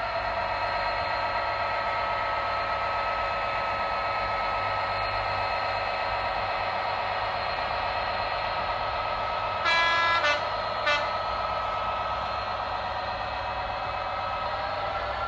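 Class 67 diesel engine sound played by the model locomotive's DCC sound decoder through its small speaker, running steadily. About ten seconds in the horn sounds: a blast of about half a second with a brief second note, then a short toot about a second later.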